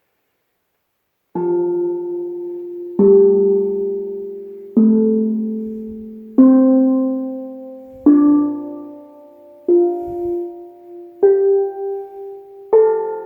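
Steel drum played one note at a time: eight struck notes about one and a half seconds apart, each ringing out and fading, the pitch stepping roughly upward like a scale.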